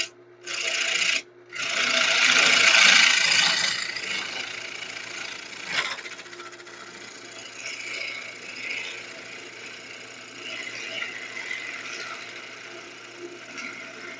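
A turning tool cutting a spinning wood blank on a lathe, with a loud scraping rasp over the first few seconds, broken twice by brief gaps, then lighter, uneven cutting over the lathe's faint steady hum.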